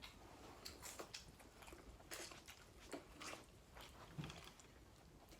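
Faint eating sounds: chewing and soft mouth smacks, a scatter of irregular small clicks.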